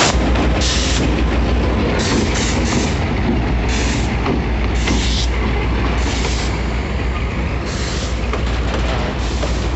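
Freight train of empty boxcars rolling past close by, led by three EMD G22UB diesel locomotives whose last unit is going by at the start: a steady heavy rumble of wheels on rail, with short high hissing sounds coming every second or so.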